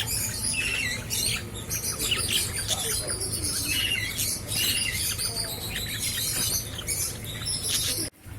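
Many caged birds chirping and calling at once, a dense chorus of short high-pitched chirps and squawks over a low steady hum; it cuts off suddenly near the end.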